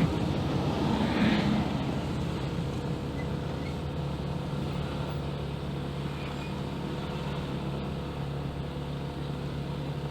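Small motorcycle engine running at a steady cruising speed during a ride, with a steady low hum under road noise; it is a little louder about a second in, then holds level.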